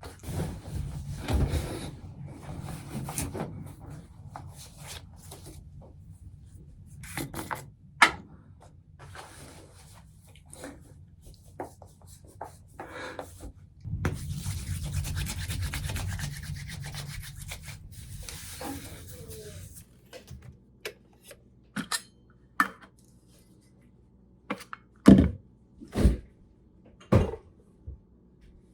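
Handling noises: rubbing and rustling with scattered clicks, and a few heavy knocks near the end.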